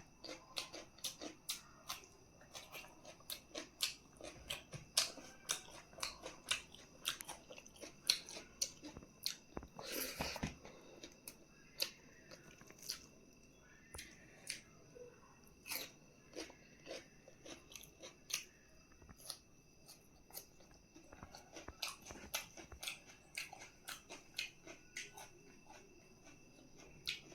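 Close-miked chewing and biting of food: soft, irregular crunches and mouth clicks, with a louder bite about ten seconds in.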